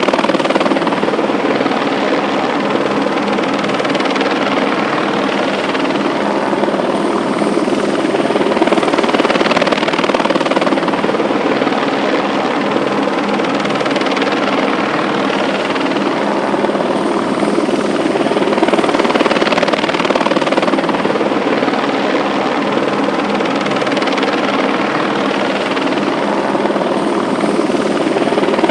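A loud, steady mechanical drone with a few held tones and slow, gentle swells in level.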